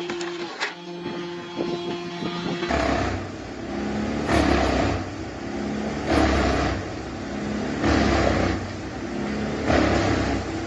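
Heavy machinery running, first with a steady hum and a few clicks, then from a few seconds in swelling and easing in regular heavy surges about every two seconds.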